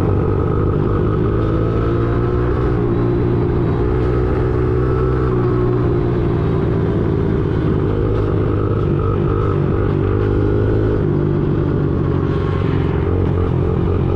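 Small 50 cc dirt bike engine running steadily while being ridden, its pitch rising and dipping slightly with the throttle.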